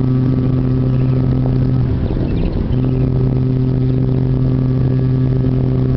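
Great Lakes freighter G3 Marquis's ship horn blowing a long, steady, deep blast, breaking off about two seconds in and then sounding again, warning small boats out of the ship's way.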